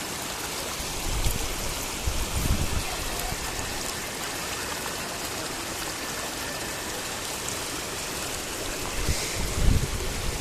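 Waterfall and river water running with a steady rush, with a few short low bumps about a second in and again near the end.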